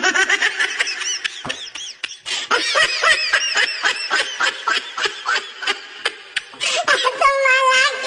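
Hearty laughter, one quick pitched laugh after another, with a longer wavering squeal near the end.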